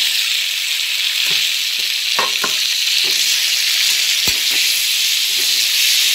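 Chopped tomatoes sizzling in hot oil with fried onions and chillies in a kadai, a steady frying hiss. A steel spatula stirs them, scraping and knocking against the pan a few times, most sharply about four seconds in.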